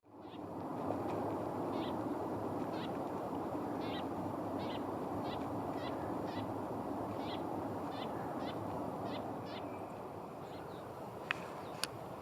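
A bird calling repeatedly: about a dozen short, high call notes, roughly one or two a second, over a steady background rush. Two sharp clicks come near the end.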